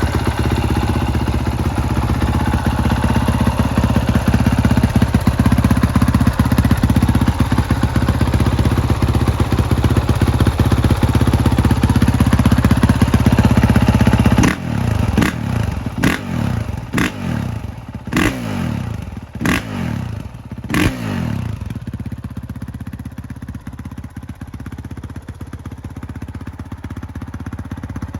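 2021 Honda CRF450R's 450 cc single-cylinder four-stroke engine running steadily through its exhaust, then blipped sharply about seven times over some six seconds, each rev dropping quickly back, before settling to a quieter idle.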